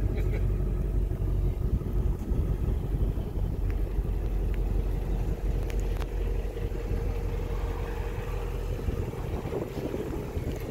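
Ford Shelby GT350R's 5.2-litre flat-plane-crank V8 idling steadily, a continuous low rumble from the exhaust.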